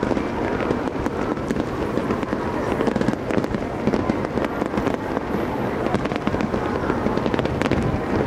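Aerial fireworks bursting in quick succession: a dense, unbroken run of bangs and pops.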